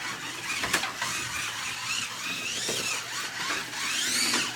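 Slot car's small electric motor whining as it laps the track, its pitch rising and falling as it speeds up and slows down. There is a sharp click about a second in.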